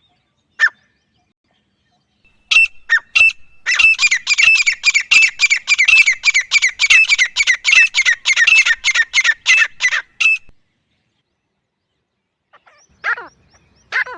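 Grey francolin calling: a few separate notes, then a fast run of repeated harsh notes, about four a second, lasting some six seconds and stopping abruptly. A few more notes come near the end.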